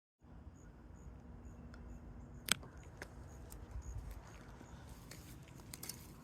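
Night-time outdoor ambience with a cricket-like insect chirping about twice a second over a low rumble, and one sharp click about two and a half seconds in.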